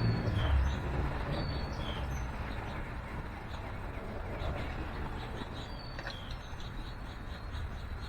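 Small songbirds chirping, short high notes and a few brief whistles scattered through, over the low rumble of passing traffic that is loudest in the first second.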